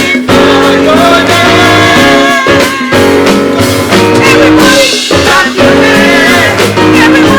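Church choir singing a praise song with instrumental accompaniment, loud and continuous.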